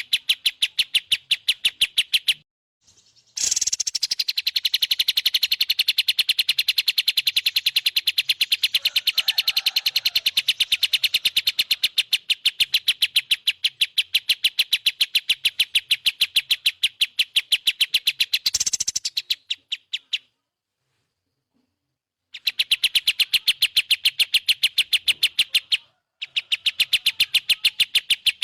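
Recorded songbird calls played as master training song: a fast, even run of high chirps, about seven a second, stopping briefly about two and a half seconds in and again for about two seconds around twenty seconds in.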